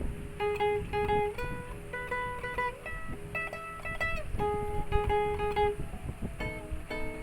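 Alvira acoustic guitar played fingerstyle: a slow melody of single plucked notes, some struck twice in quick succession, each ringing briefly before the next.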